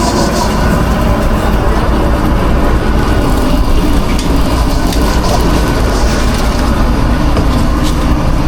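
Food truck kitchen noise: a loud, steady low machine drone with scattered clicks and clatter of kitchen work.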